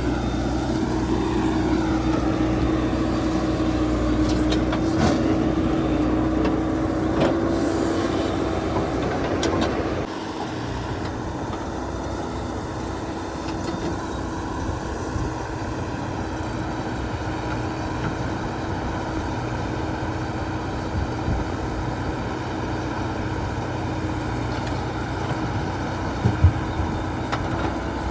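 Diesel engine of a JCB 3DX backhoe loader running steadily while it loads soil, with a few knocks in the first ten seconds. The engine note eases and the level drops about ten seconds in.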